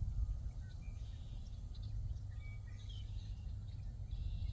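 Outdoor ambience at the water's edge: a low, steady rumble with scattered short bird chirps throughout.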